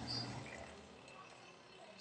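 Mini portable washing machine running with a low motor hum that dies away about half a second in, leaving only faint noise.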